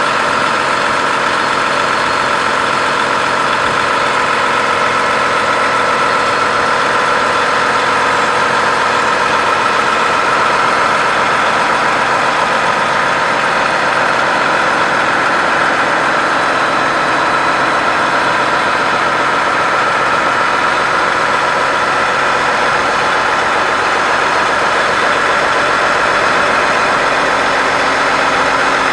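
John Deere 9460R four-wheel-drive tractor's diesel engine idling steadily.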